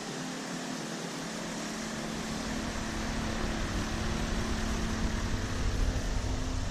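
Steady hum of room ventilation with a constant low tone, and a deep rumble that grows louder from about two seconds in.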